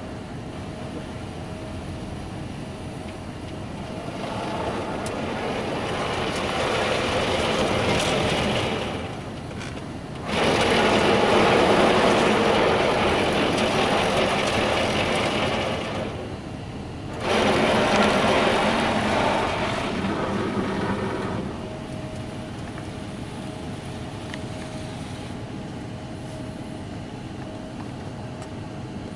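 Automatic car wash spraying the car, heard from inside the cabin: a wide water-jet hiss that swells and fades in several passes, the two loudest starting abruptly, over a faint steady hum.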